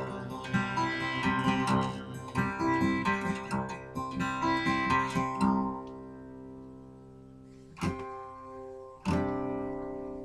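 Acoustic guitar played alone: picked and strummed chords for about five seconds, then held notes fading, with two single strummed chords left to ring out as the song closes.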